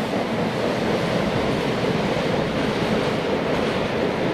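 Empty steel-carrier freight wagons rolling past at speed: a steady rush and rumble of wheels on rail.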